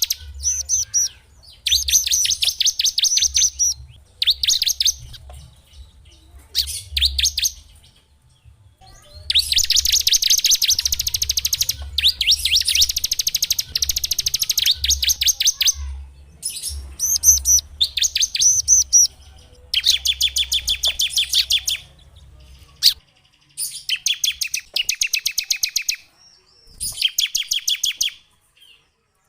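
Small songbirds singing fast, chattering trills: rapid strings of high repeated notes in bursts of one to several seconds, separated by short pauses, as in a masteran song-tutor recording. A low hum runs under the first two thirds and then stops.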